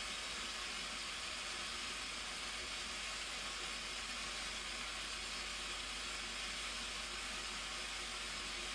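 Steady roar of the Blue Nile Falls: an even hiss of falling water that does not change.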